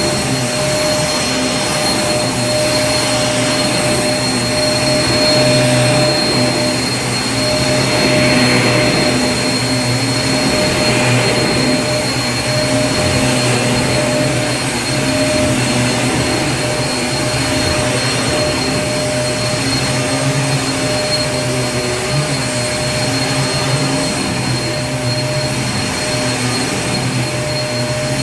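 Vacuum cleaner running steadily: a continuous motor whine over rushing air with a few steady tones, no change in pitch.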